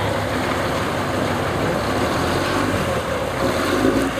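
Off-road competition truck's engine running steadily on the trial course, with a low rumble whose pitch shifts a little partway through.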